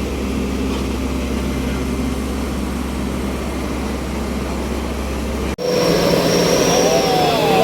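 A vehicle engine runs steadily with a low drone. About five and a half seconds in the sound cuts abruptly to a different steady engine sound, with a constant hum and a thin high whine, and a few short rises and falls in pitch near the end.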